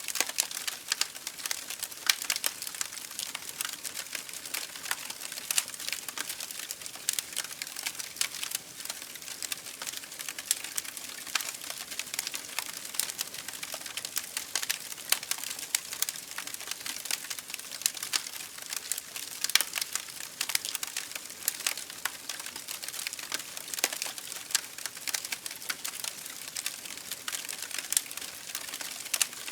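Campfire burning, with a dense, irregular crackle of small pops and snaps over a steady hiss.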